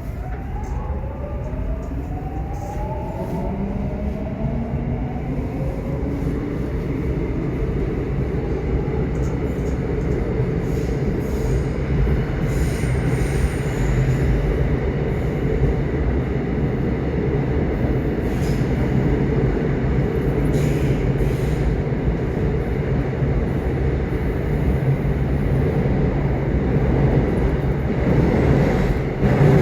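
Subway train running with a steady low rumble of wheels on track. In the first few seconds a stacked whine rises in pitch and fades out as the train picks up speed, and scattered clicks from the track come through later.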